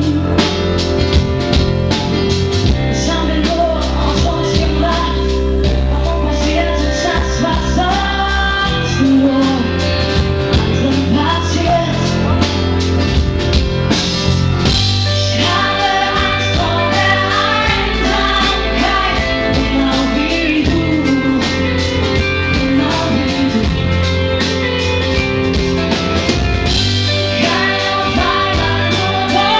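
Pop-rock band playing live with sung lead vocals over guitars and drums, the bass heavy and overloading a camera's built-in microphone.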